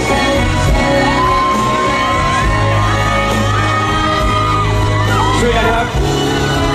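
Live pop band music in a large hall: a long held melody note over a steady bass line, with high-pitched fan screams and whoops joining in near the end.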